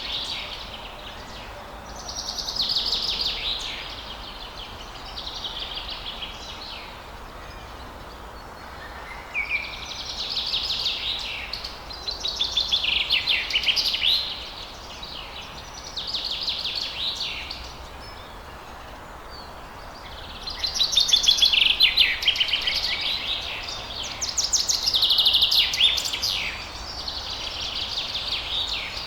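Songbirds singing in repeated rapid trilled phrases, each a second or two long and coming every few seconds, over a steady background hiss. The song drops away for a few seconds twice, and the loudest phrases come in the second half.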